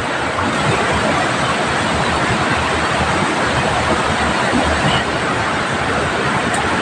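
Heavy rain falling steadily, together with the rush of a fast-flowing, rain-swollen river.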